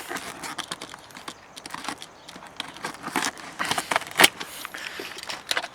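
Packaging crinkling and rustling with scattered clicks and knocks as a box is handled and unwrapped.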